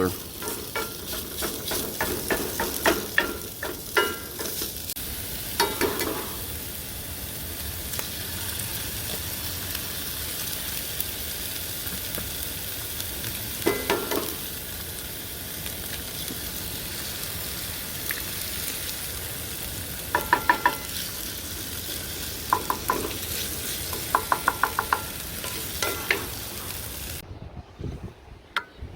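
Food sizzling in a frying pan, with a utensil stirring and scraping against the pan in short bouts.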